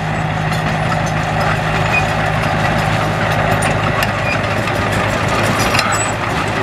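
Diesel engine of a heavy earthmoving machine running steadily, with a low, even drone and a few faint clinks over it.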